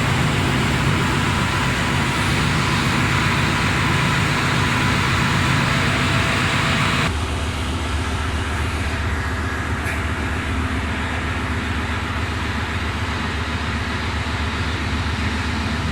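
Steady, loud drone of running engine-room machinery, with a low hum beneath it. About seven seconds in it drops abruptly to a slightly quieter, duller drone.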